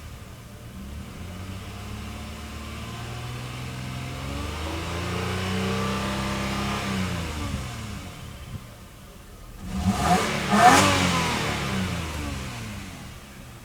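2001 Lexus ES300's 3.0 L DOHC V6 being revved while stationary: it settles to idle, rises to a held rev for a couple of seconds and falls back, then gets two quick sharp blips about ten seconds in, the loudest part, before dropping back to idle.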